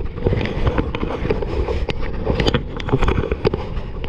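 Wind buffeting the microphone while a kayak is paddled hard into it, with a steady low rumble and scattered sharp knocks and splashes from the paddling.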